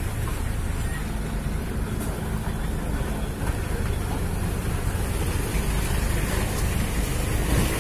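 A vehicle running steadily, its low engine drone mixed with road and wind noise.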